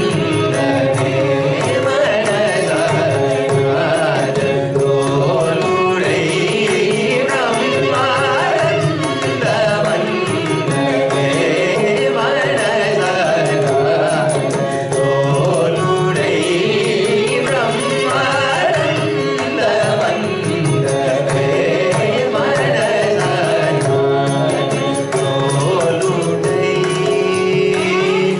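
Carnatic vocal music: a singer's voice gliding and ornamenting between notes over a steady drone, with mridangam accompaniment.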